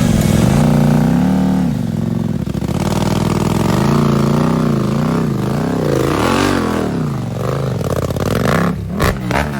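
Dirt bike engine running under way, its pitch rising and falling as the throttle opens and closes. There are a few sharp knocks near the end.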